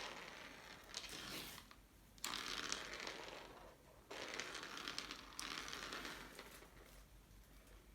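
Crinkly rustling in three bursts of one to two seconds each, the middle one loudest, then fading: a crinkly toy being played with during cat play.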